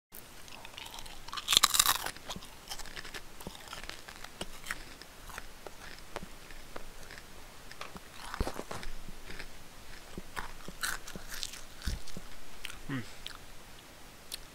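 A person biting and chewing crunchy food, with irregular mouth clicks throughout. The loudest crunch comes about a second and a half in, and more crunches follow later.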